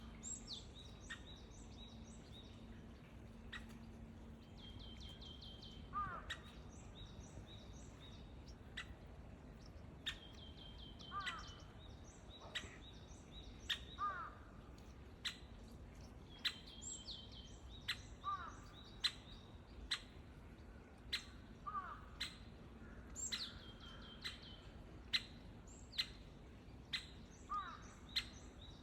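Wild birds calling: a short phrase that slides down in pitch repeats every few seconds, with bursts of high twittering notes between. Sharp single ticks come about once a second through the later part.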